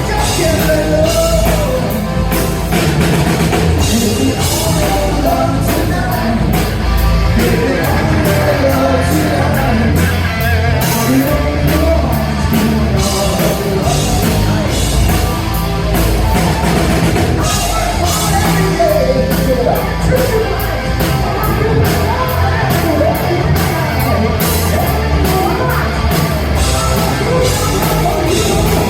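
Live hard rock band playing loud: distorted electric guitars, bass and a drum kit keeping a steady beat, with a wavering lead melody over the top.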